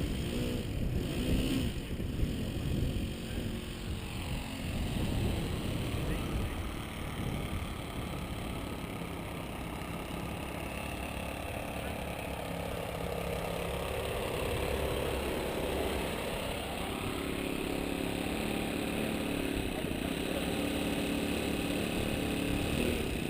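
Wind buffeting the microphone, with the whine of the electric motors of an R/C B-17 model plane in flight, its pitch rising and falling as the plane manoeuvres.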